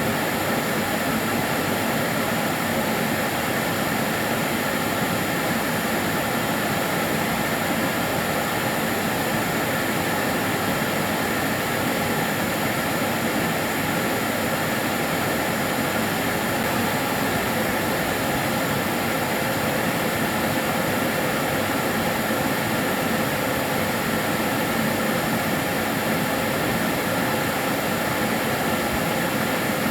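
Kärcher DS 6 Premium water-filter vacuum cleaner running steadily: an even rush of air with a faint steady whine over it, unchanging throughout.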